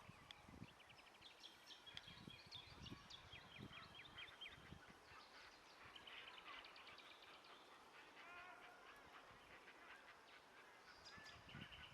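Faint calls of several small birds: rapid trains of short repeated notes and scattered chirps, with a few soft low thumps.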